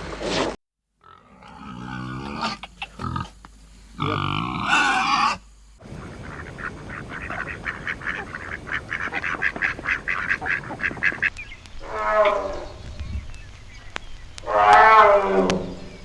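Farm animal calls in a string of short cut-together clips. There are a few low pitched calls, then a fast, even run of short calls lasting about five seconds, then two separate calls near the end that fall in pitch.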